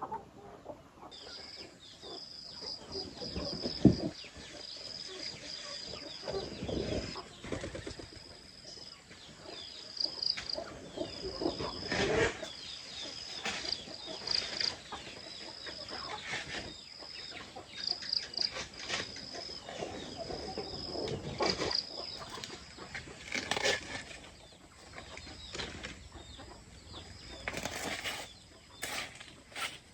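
Chickens clucking with wings flapping, and scattered knocks, over a high chirping that repeats about once a second and stops a little after two-thirds of the way through.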